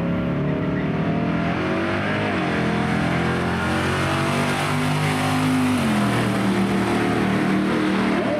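Car engine running hard under throttle, its pitch stepping down about two seconds in and again about six seconds in.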